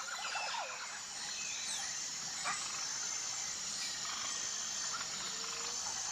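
Tropical forest ambience: a steady high-pitched insect chorus with scattered bird calls, including a rapid trill right at the start.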